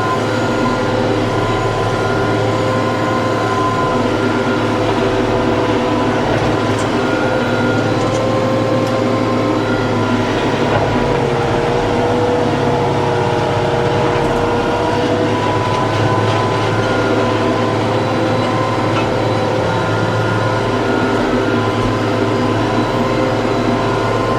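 TYM T654 tractor's diesel engine running steadily under load, with a steady mechanical whine that drifts slightly in pitch.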